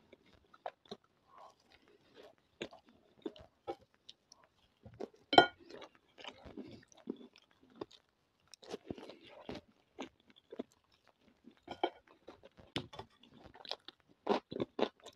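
Close-up chewing and crunching of food in the mouth, with scattered short wet clicks. Near the end come crunchy bites of a fresh cucumber slice.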